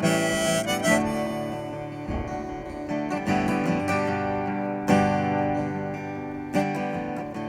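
Acoustic guitar strumming chords in the instrumental introduction of a country gospel song, with the harmonica's phrase ending just as it begins. There are heavier strums at the start and twice near the end.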